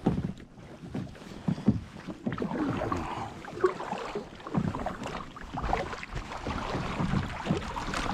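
Kayak paddle strokes, the blades dipping and splashing in the water about once a second.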